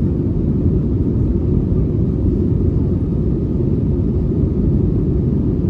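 Low, steady rumble of an Airbus A320neo's jet engines during takeoff.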